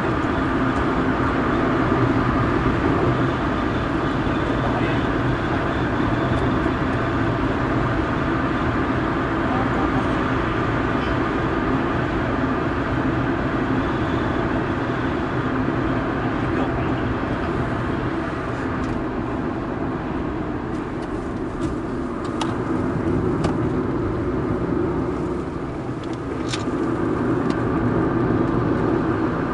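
Inside the cabin of a first-generation Honda Insight at speed, its 1.0-litre three-cylinder engine running steadily under load over tyre and road noise. The sound eases off briefly past the middle and picks up again near the end.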